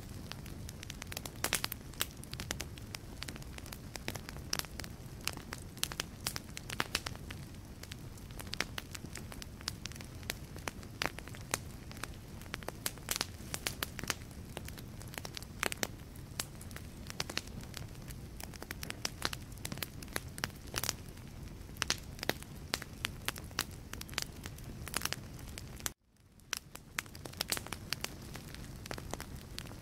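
Wood fire crackling in a fireplace: frequent irregular sharp pops and snaps from the burning logs over a low rumble of flame. About 26 seconds in, the sound cuts out for a moment and fades back in.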